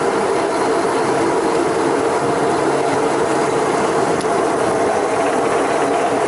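Steady, unbroken mechanical clatter and drone of a fishing boat's engine and deck machinery running.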